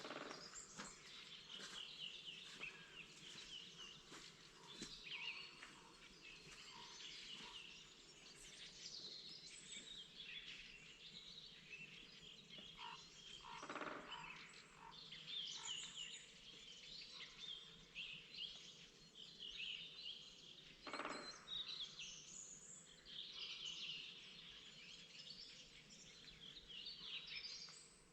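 Several songbirds singing in a spring chorus, a steady stream of overlapping chirps and twittering phrases.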